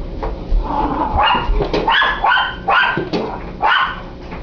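Dog barking: about six short, high barks in quick succession.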